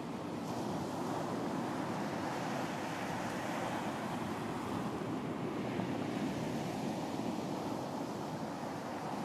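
Sea surf washing onto a beach in a steady wash of noise that swells and eases gently, with some wind.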